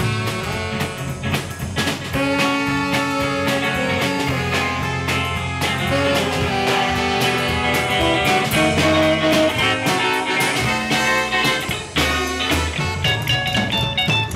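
Live swing band playing a bluesy dance tune with a steady beat, heard up close to the band rather than through the PA speakers.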